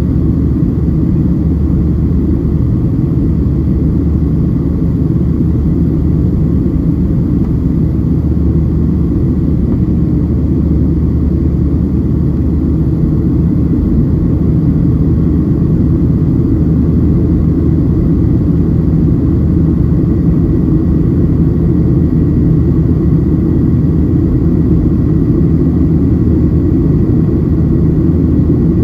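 Steady cabin noise inside a Boeing 737-700 in flight: a low, even roar from the CFM56-7B engines and the airflow, with a faint steady high tone above it.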